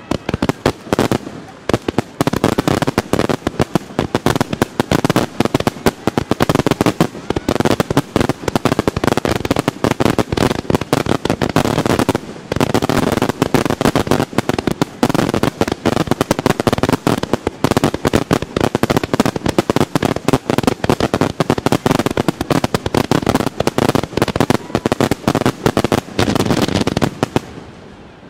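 Aerial firework peony shells fired all at once, bursting close by in a dense barrage of overlapping booms and cracks, with a short lull about twelve seconds in.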